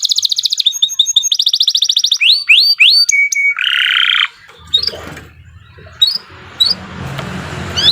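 Domestic canary singing: very fast trills, then a few rising whistled notes, a short held note and a buzzy phrase. About halfway through the song breaks off, leaving a few short upswept chirps over a low background rumble.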